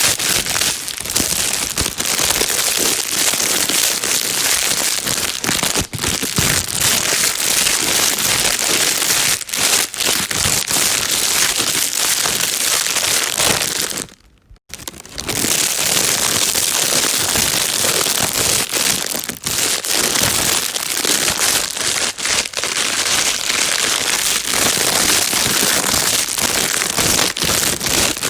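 Plastic bag being crumpled and crinkled continuously, a dense crackling rustle used as white noise to calm a baby. It stops for about half a second around the middle, then resumes.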